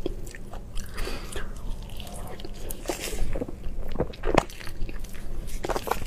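Close-miked eating sounds: chewing and biting, with irregular short crisp crunches and mouth clicks, the loudest a little past the middle.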